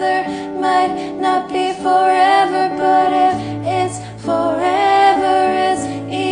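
Female singing over an acoustic guitar accompaniment, with long held, gliding sung notes.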